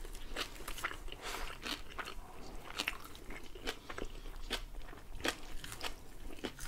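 Close-miked chewing with irregular sharp crunches, about one or two a second, as two people eat shawarma wrapped in grilled lavash, with fresh parsley.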